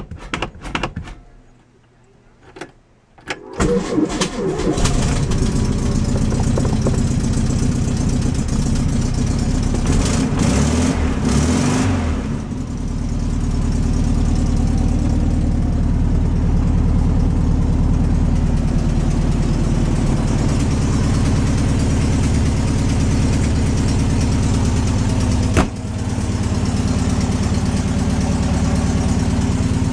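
Air-cooled Volkswagen flat-four engine cranked by the starter about three seconds in and catching, revved briefly, then idling steadily.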